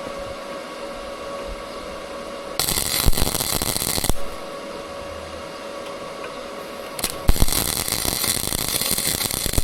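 Two short bursts of welding, the arc crackling for about a second and a half each, one a few seconds in and one near the end: tack welds on steel. A steady electrical hum from the welder runs between them.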